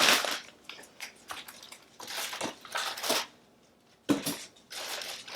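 Plastic food packaging crinkling and rustling as meal-kit ingredient packs are handled, in several short bursts with a brief gap just before the end.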